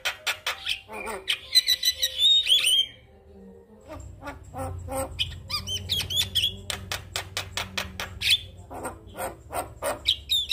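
Male Javan myna singing: a fast run of sharp clicks and chattering notes mixed with high whistled slurs, breaking off briefly about three seconds in before the clicking and whistling start again.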